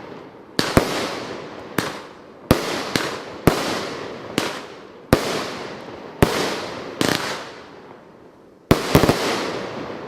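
Shells from a 35-shot consumer firework cake bursting one after another at an uneven pace. There are about a dozen loud bangs in ten seconds, each trailing off into a rolling echo, with a quick double bang near the end.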